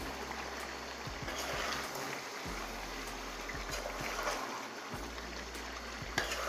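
Chicken and potato curry sizzling as it fries in a pot, an even crackling hiss, with a sharp click about six seconds in.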